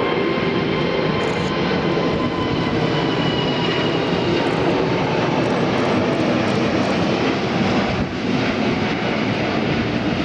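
Airbus A380 jet engines at takeoff power as the airliner climbs away: a loud, steady roar with faint whining tones that slide slightly lower over the first few seconds.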